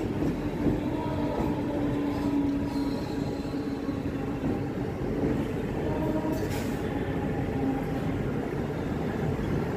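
Mumbai suburban electric local train running at speed, heard from its open doorway: a steady rumble of wheels on the rails with a faint steady whine. Another local train runs alongside on the next track.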